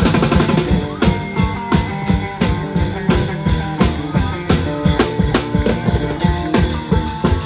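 Klong yao long-drum band playing a fast, steady beat with cymbals and a plucked string melody over it, in the Isan festival procession style.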